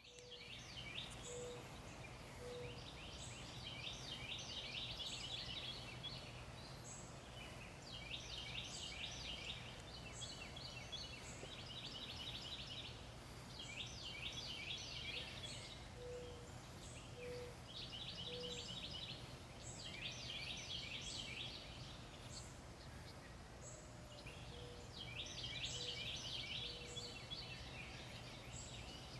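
Small birds singing outdoors, with repeated fast trilled phrases a second or two long and short high notes, over a faint steady low hum.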